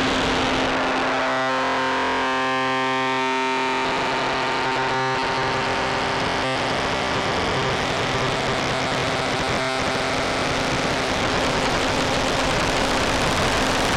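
K-ACCUMULATOR synthesizer oscillator module playing a cross-phase-modulation (XPM) drone: a dense, distorted, noisy tone over one steady low pitch. About a second in a clear stack of pitched overtones emerges, then dissolves back into noise about five seconds in.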